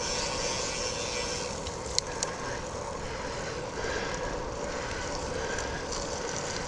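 Steady riding noise from a bicycle on wet pavement: wind across the microphone and tyre hiss, under a steady hum, with two sharp clicks about two seconds in.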